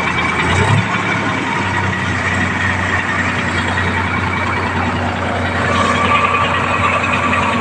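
Tractor diesel engine running steadily, with a brief rise in engine speed about half a second in.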